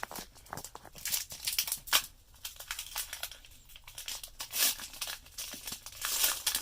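Foil wrapper of a Pokémon card booster pack being torn open and crinkled, in irregular bursts of crackling and rustling.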